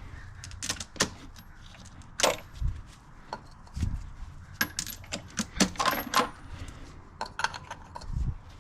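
Small metal parts and hand tools clinking and clattering: a string of irregular sharp metallic clicks and knocks, several loud ones, while engine hardware is handled and removed.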